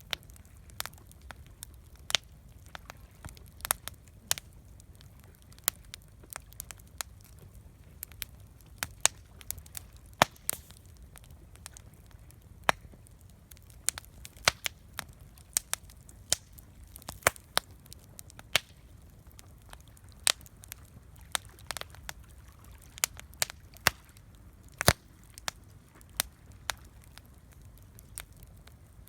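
Wood campfire crackling: irregular sharp pops and snaps, some much louder than others, over a faint low rumble.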